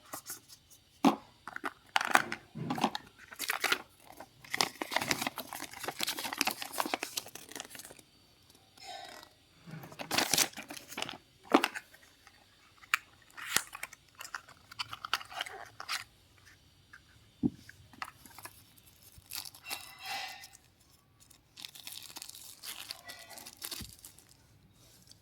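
Earbud packaging being opened and handled: irregular tearing and crinkling with sharp clicks and taps, coming in bursts with short pauses between.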